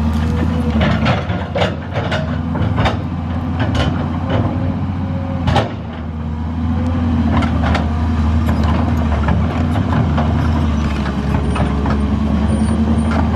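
Large bonfire burning with a steady low rumble and frequent sharp, irregular pops and crackles.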